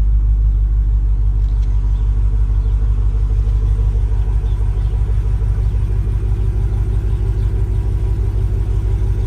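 A 392 (6.4-litre) Hemi V8 with headers, swapped into a 2005 Dodge Ram, idling steadily after a cold start, with a low, even exhaust rumble.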